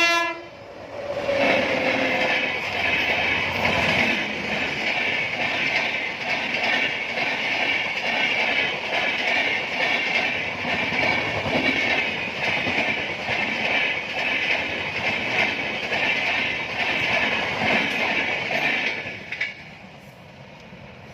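Indian Railways express train passing: the locomotive horn cuts off just at the start, then the coaches clatter over the rail joints with a steady rhythmic clacking and a high rail hiss. The clatter drops away near the end as the train goes by.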